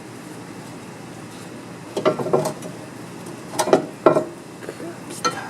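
Short metallic clinks and clanks in three brief clusters, from metal tools or parts being handled, over a steady hiss.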